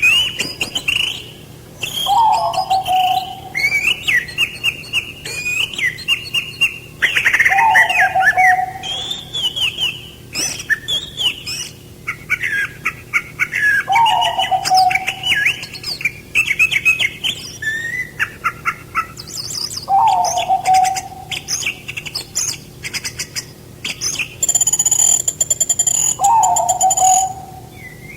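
Several songbirds chirping and singing in quick, overlapping phrases. A lower call that drops in pitch repeats about every six seconds.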